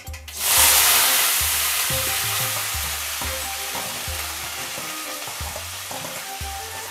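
Chopped onion and curry leaves dropped into hot oil with mustard seeds, urad dal and cumin for a tempering: a loud sizzle that bursts out about half a second in and slowly dies down as the oil settles.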